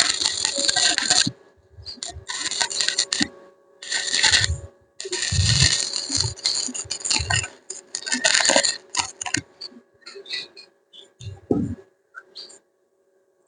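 Metal being worked by hand: repeated bursts of scraping and clattering about a second long, with sharp metallic clicks in between, growing sparser near the end.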